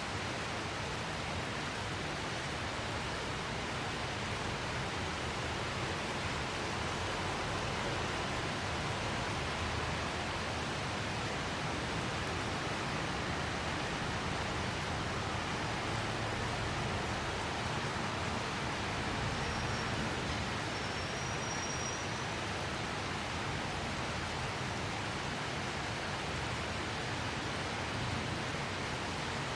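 Steady rain falling, an even hiss that holds throughout, with a faint short high whistle about two-thirds of the way through.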